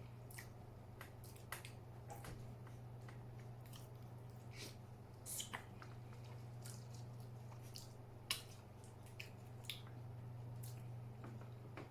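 Close-miked mouth sounds of a person chewing soft food, with scattered small wet clicks and smacks over a steady low hum.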